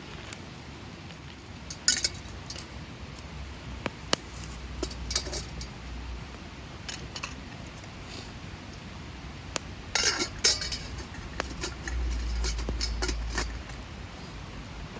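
Metal camp cookware being handled: pots and utensils clinking and knocking a dozen or so times, with the loudest cluster about ten seconds in, over a steady rain hiss.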